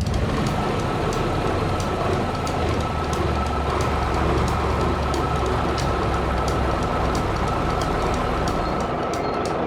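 A heavy construction vehicle's engine running steadily, a low rumble with a thin steady whine above it and light, regular ticking.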